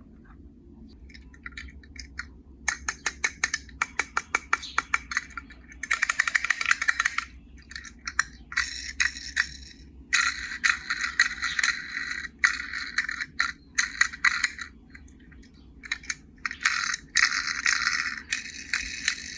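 Small die-cast toy cars and a plastic carry case being handled: a quick run of sharp clicks, then several bursts of metallic rattling and scraping.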